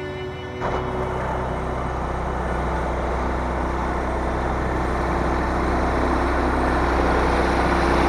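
Engine of a Woodland Mills HM130 portable bandsaw mill running steadily with a loud rushing noise, then shut off near the end.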